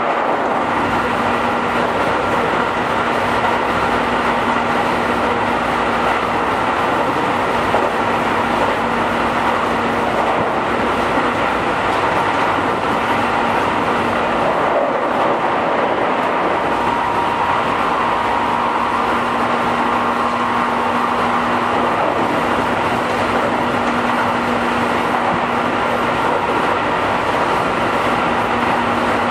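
Keihan 5000 series electric train running between stations, heard from on board: the steady rumble of wheels on rail and running gear, with a faint steady hum that dips in and out.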